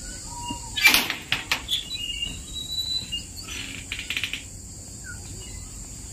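Caged birds giving short high chirps, with bursts of wing flapping: the loudest about a second in and another quick flutter near four seconds. A steady high insect drone runs underneath.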